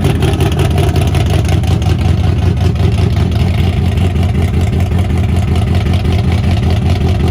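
Cars and trucks rolling past at low speed, their engine exhaust a loud, steady, deep rumble.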